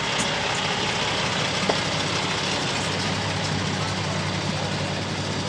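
Truck engine idling: a steady low hum that grows stronger about two seconds in.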